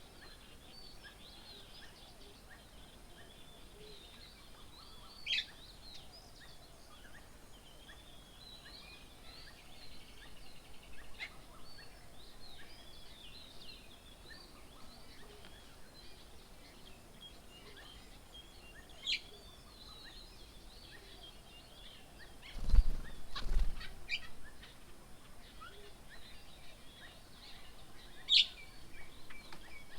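Birds at a bird table chirping and chattering without a break, with a few sharper, louder call notes now and then. About two-thirds of the way through, two low thumps in quick succession are the loudest sounds.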